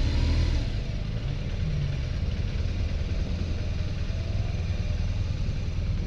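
Motorcycle engine running steadily at low revs as the bike rolls slowly, a deep even rumble that eases back slightly about a second in.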